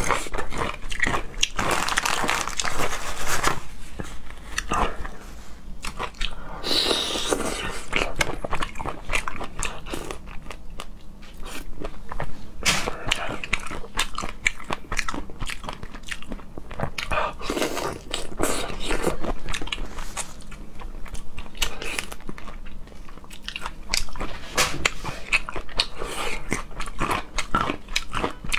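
Close-miked chewing and biting of chili-marinated shrimp: continuous crunching with many sharp clicks.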